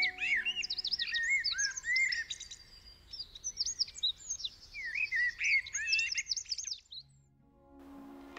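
Several small birds singing and chirping, with quick overlapping calls that stop about seven seconds in. Held music notes fade out in the first second.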